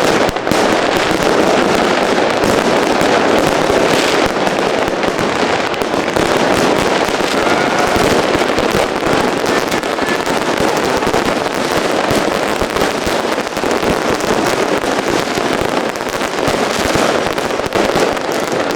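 Dense, continuous barrage of fireworks and firecrackers, many bangs and crackles overlapping with no pause between them.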